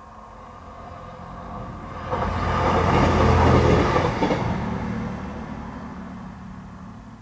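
Diesel passenger train passing over the level crossing, the rumble of its engines and wheels on the rails rising to a peak about three to four seconds in, then fading as it moves away.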